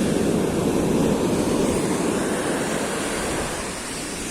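Large sea waves breaking and rushing up the beach in rough surf, with wind buffeting the microphone.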